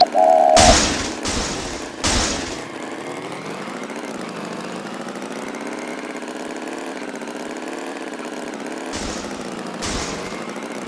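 Animated tractor engine running steadily at idle, with a short beep right at the start. Three loud puffs of hiss come in the first couple of seconds, and two softer ones near the end.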